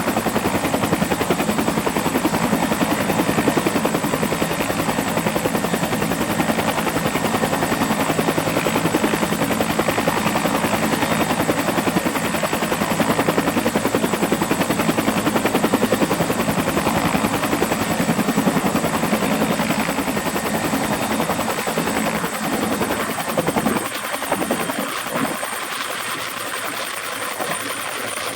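Bell 212 twin-turbine helicopter running, with a fast, steady rotor-blade chop over a high turbine whine. About 24 seconds in, the low end and loudness ease off, and the whine rises slightly near the end.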